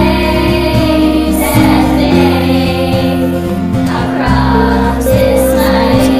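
School choir singing in unison over an instrumental accompaniment with sustained bass notes.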